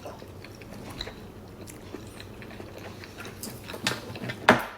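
Close-miked chewing and mouth sounds from eating tteokbokki: soft wet smacks and small clicks, with a sharp click near the end.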